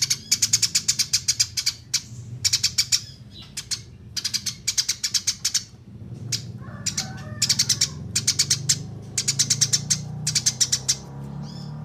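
Eurasian tree sparrow chirping in rapid bursts, about nine sharp chirps a second for a second or so at a time with short pauses between, over a steady low hum.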